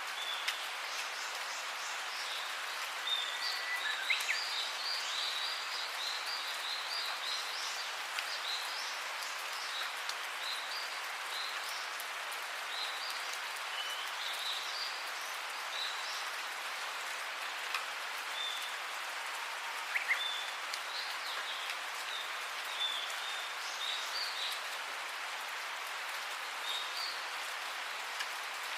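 Steady rain falling, an even hiss, with short bird chirps scattered through it, most frequent a few seconds in.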